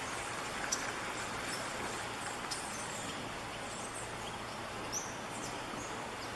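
Natural outdoor ambience: a steady hiss of background noise with scattered short, high bird chirps.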